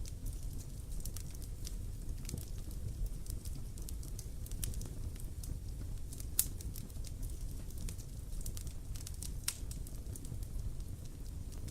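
Wood fire crackling: irregular sharp pops and snaps over a low steady rumble, with one louder pop about six seconds in.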